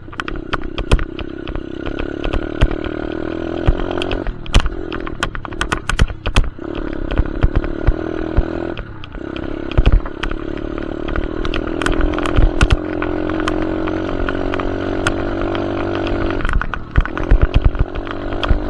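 Dirt bike engine running while being ridden, its note dropping and then climbing again three times as the throttle is eased and reopened. Many sharp clicks and knocks run through it.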